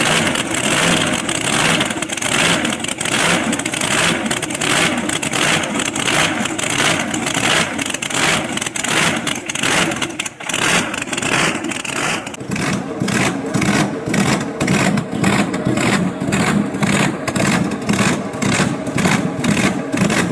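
Supercharged 610 cubic inch engine of a hot-rod 1931 Chevrolet coupe running loud through its headers, with a heavy, even pulse of about two to three beats a second. The sound dips briefly about halfway through, then the pulses come through more sharply.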